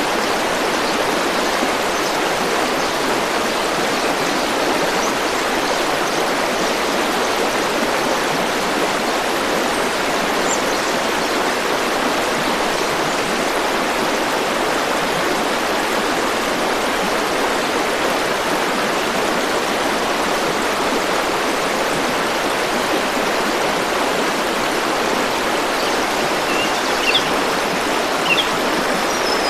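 River water flowing in a steady, continuous rush. A few short high chirps come in near the end.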